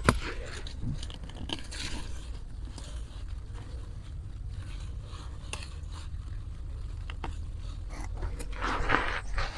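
Grass and weeds being pulled up by hand: irregular rustling, scraping and tearing of stems, with a sharp click at the start and a louder rustle near the end.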